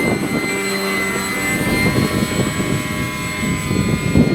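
Electric motor and propeller of an RC model canard airplane (an R.M.-12 replica) running in flight, a steady whine of several tones held at a nearly even pitch.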